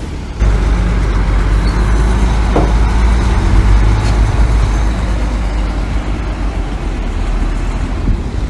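Heavy diesel engine of construction machinery running hard with a deep, steady rumble, starting abruptly about half a second in, with a brief squeal near the middle.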